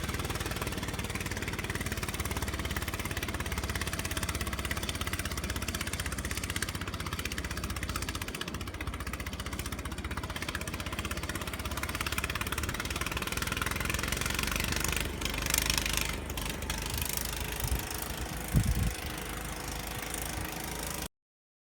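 An engine running steadily, with a brief louder rush of noise a little past the middle and a short thump near the end. The sound cuts off abruptly.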